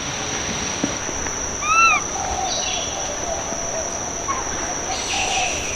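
Steady high-pitched insect drone, with one short rising-and-falling call about two seconds in, typical of a baby macaque's coo.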